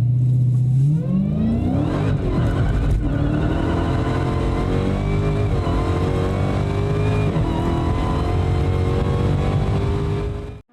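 Dodge Challenger engine under hard acceleration, revs climbing through the gears with pitch drops at several upshifts and a long pull in the last gear. It cuts off suddenly near the end.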